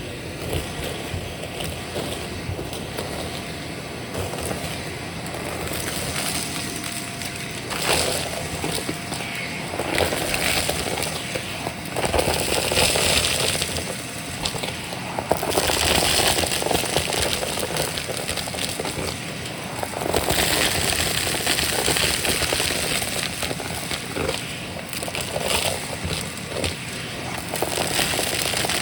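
Vacuum cleaner running and sucking up crunchy debris, with a constant crackle of bits rattling up the hose, growing louder in stretches as more is picked up.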